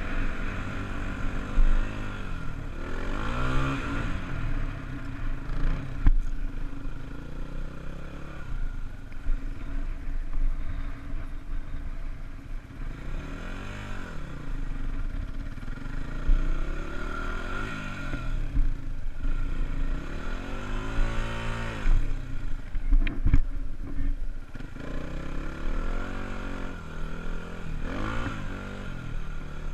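Honda dirt bike engine ridden with the throttle opening and closing, its pitch climbing and dropping again every few seconds. There is a sharp knock about 23 seconds in.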